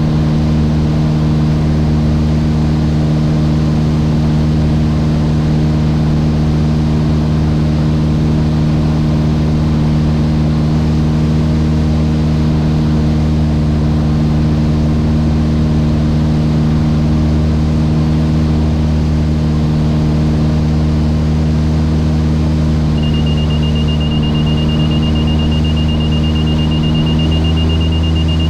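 Mooney M20J's four-cylinder Lycoming IO-360 engine and propeller drone, heard from inside the cockpit, steady in pitch with a slight change in engine note near the end. About 23 seconds in, a high-pitched tone comes on and continues.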